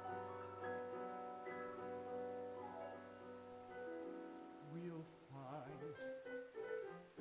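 Piano playing sustained chords of a show-tune accompaniment. From about four and a half seconds in, a wavering melody line with vibrato comes in over it.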